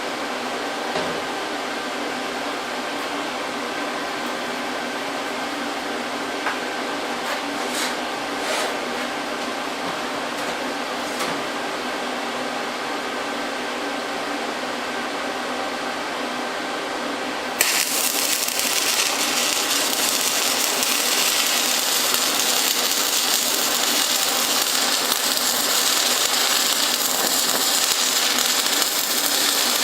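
An inverter welder hums steadily. About eighteen seconds in, a stick-welding (SMAW) arc strikes and crackles and sizzles steadily as a bead is run on a lap joint.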